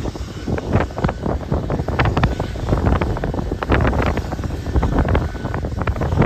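Strong, gusty wind buffeting the microphone: a loud, uneven rumble that surges and drops irregularly.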